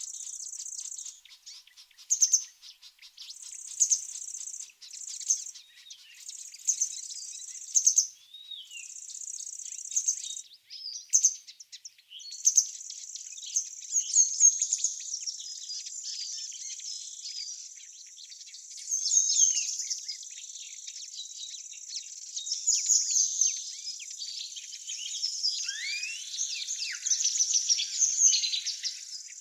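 Small songbirds chirping and singing, with many quick chirps and a few falling whistled calls, over a high, thin trill that starts and stops in short spells for the first ten seconds or so and then runs on steadily.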